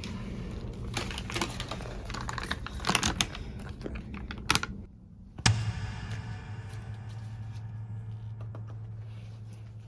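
Keyboard typing, a quick run of key clicks that stops about five seconds in, then a single sharp knock with a brief ringing tail, after which a steady low hum remains.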